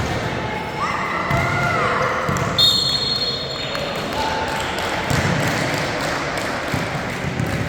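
Basketball game in a gym: a ball bouncing on the court amid crowd shouts. A referee's whistle blows once, shrill and for about a second, a little before midway.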